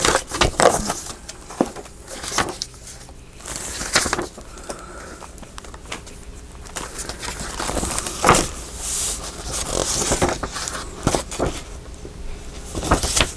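Paper ephemera pieces rustling and tapping as they are handled and sorted by hand, with scattered light clicks and a longer rustle about eight to ten seconds in.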